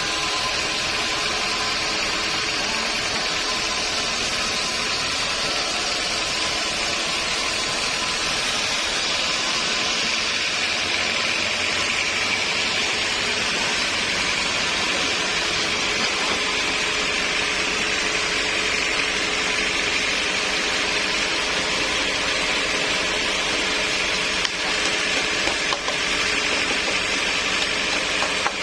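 Sawmill machinery running steadily: a loud, continuous machine noise with a high hiss that slowly drifts up and down in pitch.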